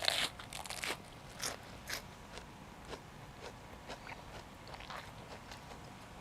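Close-up crunching and chewing of raw vegetables, with a loud crisp bite in the first second followed by smaller crunches as the mouthful is chewed.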